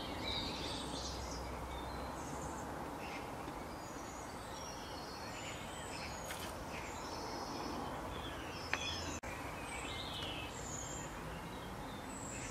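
Outdoor ambience: small birds chirping and calling in short scattered phrases over a steady background hiss, with one sharp click about three-quarters of the way through.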